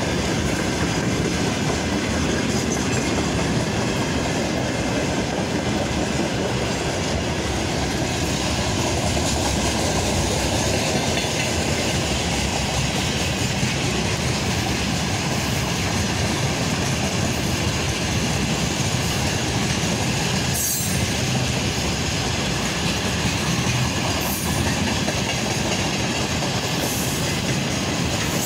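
Freight train of tank wagons passing close by at speed: steady noise of the wagons' wheels running on the rails.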